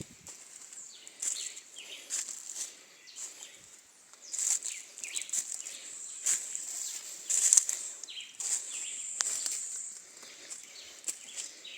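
Irregular crunching and rustling of footsteps through dry leaves and undergrowth over a steady high hiss, with a few short chirps.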